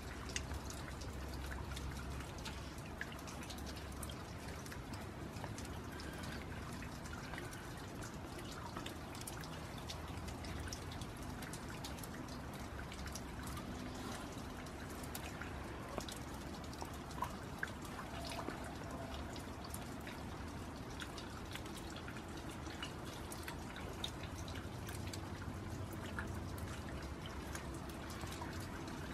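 Steady rain falling, with many scattered drops ticking and pattering.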